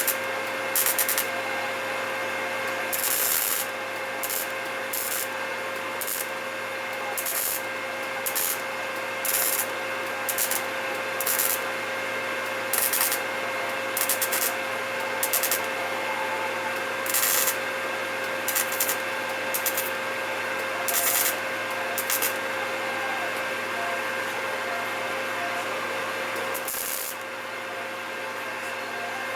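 A workshop machine runs with a steady hum, overlaid by short rasping bursts of noise about once a second, each lasting under a second.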